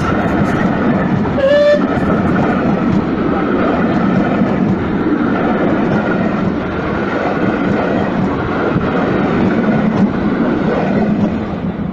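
Passenger coaches of a steam-hauled train rolling past close by, a steady loud rumble of wheels on rail with a brief squeal about a second and a half in. The rumble eases near the end as the last coach passes.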